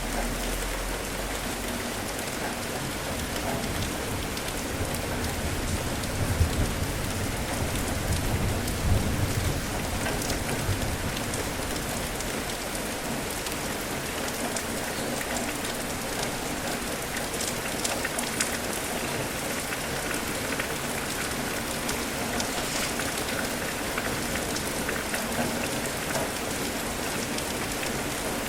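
Steady rain falling and pattering on surfaces, with scattered louder drop ticks. A low rumble swells about six seconds in and dies away by about ten seconds.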